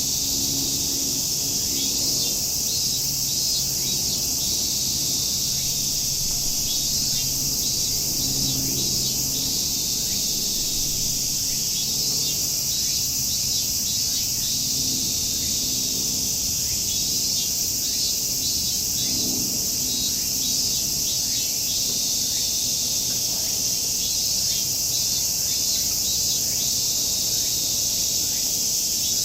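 Chorus of summer cicadas shrilling steadily, with small birds chirping in short repeated runs every few seconds. A faint low hum comes and goes underneath.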